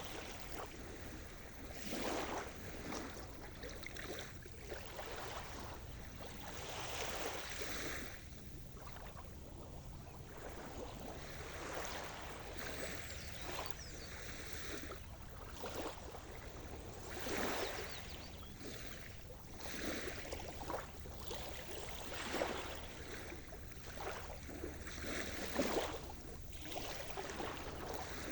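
Sea surf: small waves washing in one after another, a swell of splashing every two to three seconds over a steady low rush.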